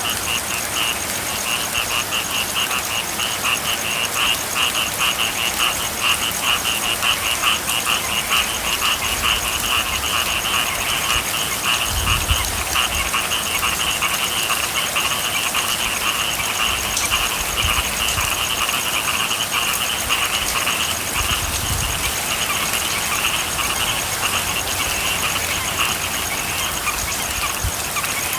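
A chorus of frogs calling in rapid, steady pulsing trills over the even hiss of falling rain. Two brief low rumbles come in about twelve and about twenty-two seconds in.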